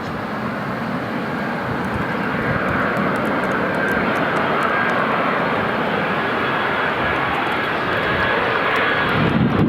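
Jet airliner's engines, a steady rush with a faint high whine, slowly growing louder.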